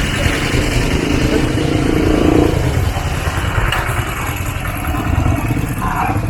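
A motor vehicle engine running close by over steady street noise, its pitch rising briefly about two seconds in.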